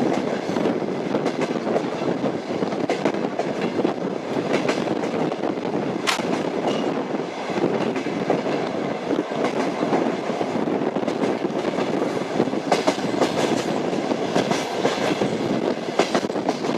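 Train wheels running on the rails: a steady rumble with scattered sharp clicks from the wheels.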